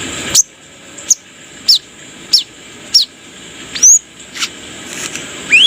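Brown-throated sunbird (kolibri kelapa) calling: a quick series of sharp, high chips, each sliding steeply downward, repeated roughly every half second. Near the end come a few shorter notes that rise in pitch.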